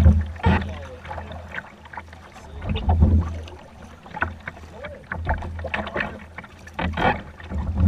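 Kayak paddles dipping and splashing in floodwater, stroke after stroke, with low rumbling swells every couple of seconds.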